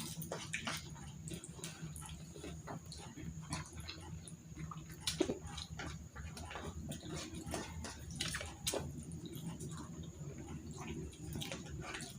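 Close-up eating sounds: chewing with small irregular clicks and ticks of food and utensils, over a steady low hum.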